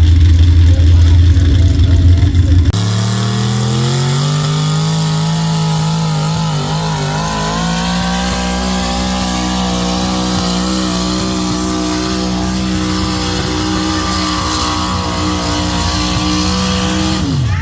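Pulling vehicle's engine at full throttle down the track. A loud low rumble cuts off about three seconds in. Then the engine note climbs and holds steady at high revs through the pull, dropping off just at the end.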